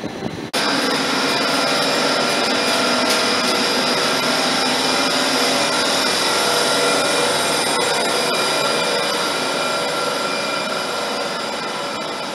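TGV Lyria double-deck train's power car pulling out, its cooling fans and traction equipment blowing loudly with several steady high whines on top. The noise starts suddenly about half a second in and slowly fades near the end as the coaches follow.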